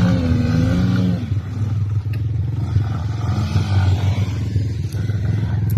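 Dirt bike engine running steadily, its pitch wavering a little in the first second as the throttle changes.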